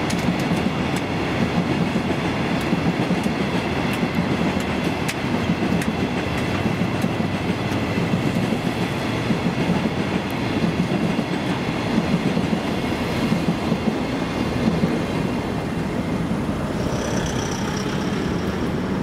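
Coal hopper wagons of a freight train rolling past on steel rails, giving a steady rumble with a clickety-clack of wheels over the rail joints. A short high tone sounds near the end.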